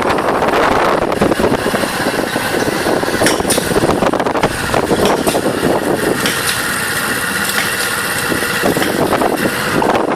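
Motorbike riding through traffic: engine noise and passing vehicles under heavy wind buffeting on the microphone. A steadier engine drone stands out through the middle seconds.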